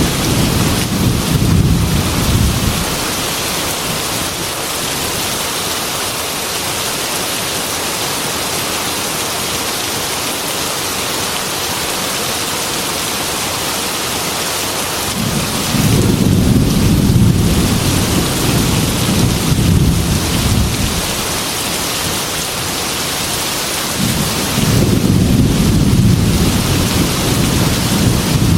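Heavy rain falling in a steady hiss, with thunder rumbling low three times: a rumble at the start that dies away about three seconds in, a longer one starting about halfway through, and a third beginning near the end.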